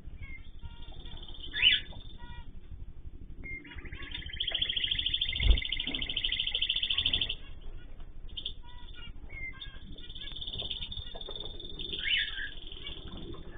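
Cage birds chirping and calling, with a long fast high trill from about four and a half to seven seconds in and sharp single chirps near the start and near the end. A dull thump about five and a half seconds in.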